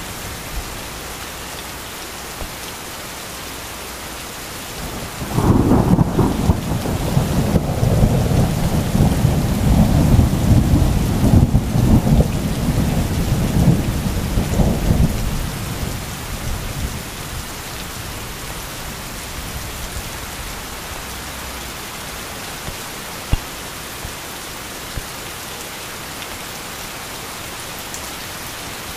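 Steady heavy rain with a long rumble of thunder that breaks in suddenly about five seconds in, rolls for about ten seconds and fades away, leaving the rain alone.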